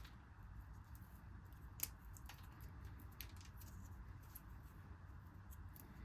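Near silence: a steady low room hum with a few faint, light clicks, one sharper click about two seconds in.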